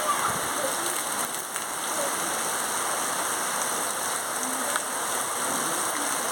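Rain falling steadily: a dense, even hiss of drops on surfaces with no let-up.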